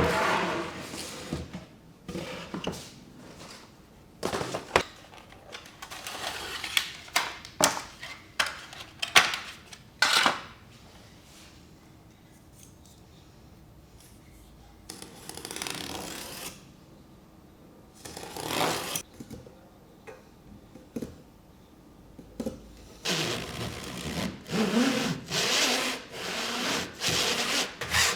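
Hand saw cutting soft Japanese cedar: scattered short strokes, knocks and rubbing with pauses between them, then a steady run of back-and-forth sawing strokes over the last few seconds.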